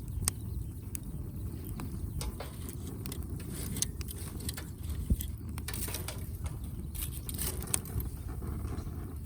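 Firewood burning in a fire pit, crackling with scattered sharp pops over a low steady rumble; the loudest pop comes about five seconds in.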